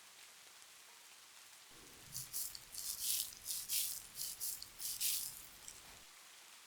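A quick run of crisp rattling, crinkling bursts from close-up handling of an object, about ten in three seconds, starting about two seconds in. A soft, steady rain ambience runs underneath.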